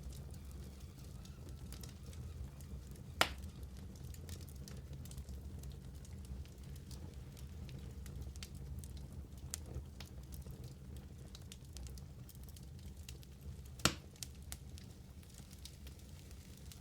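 Wood fire burning in a fireplace, with a steady low rumble and scattered small crackles, and two sharp loud pops, one about three seconds in and one near the end.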